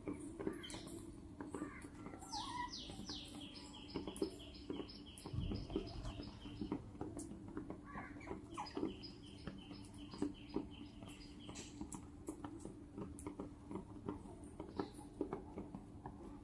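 Animals calling at a grain feeder: two runs of rapid, evenly spaced high chirps, about five or six a second, the first about two seconds in and the second about eight seconds in, over scattered small clicks.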